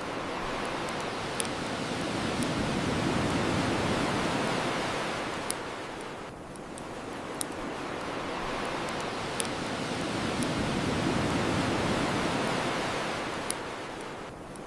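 Ocean waves washing onto a shore, swelling and receding twice, with a bonfire giving single sharp pops about every two seconds.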